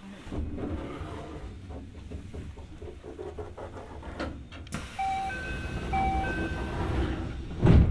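Keio 1000 series commuter train heard from inside the car as it pulls away and gathers speed, with a steady low running rumble and wheel-on-rail clicks. From about five seconds in, the motors' inverter gives short steady tones. A loud thump comes near the end.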